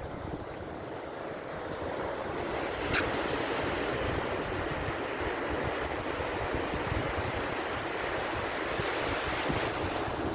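Rough sea surf washing onto a beach in strong wind, with wind buffeting the microphone. The surf swells a little about two seconds in, and there is a brief sharp click a second later.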